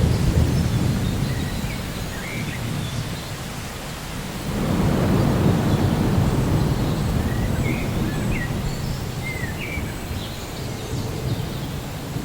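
Rainforest soundscape: steady rain with rolling thunder, one rumble fading away and another swelling up about a third of the way in, while birds give short chirps over it.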